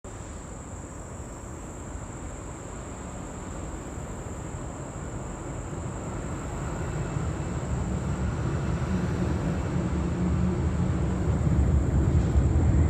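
Approaching train: a low rumble that grows steadily louder.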